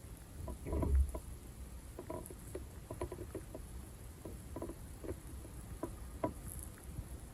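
Sebum plugs being pulled out of scalp pores, making small wet pops and clicks ('nuppo nupo'). A louder cluster with a low thump comes about a second in, then scattered single pops over the next few seconds.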